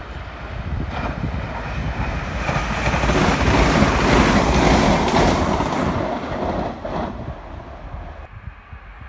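A multiple-unit passenger train passing at speed, its rumble and rail noise swelling to a peak about four seconds in and dying away by about eight seconds. Wind buffets the microphone throughout.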